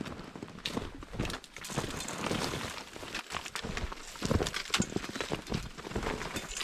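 Hiker's footsteps crunching through snow, an irregular run of steps with rustling in between.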